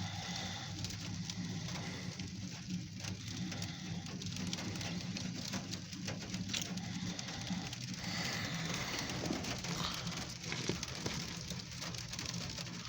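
Oil Creek & Titusville Alco diesel locomotive No. 75 running light, a steady low engine rumble with a hiss over it.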